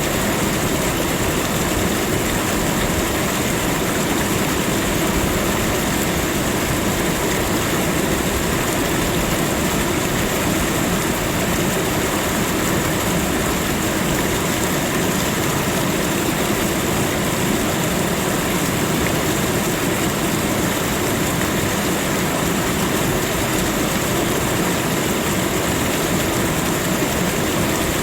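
Steady, unchanging rushing noise of a continuous nature ambience, with a faint, even high-pitched hiss riding on top and no distinct events.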